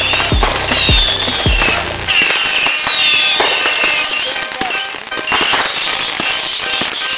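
Fireworks going off, with repeated bangs and crackling, over music. The music's steady bass beat drops out about two seconds in.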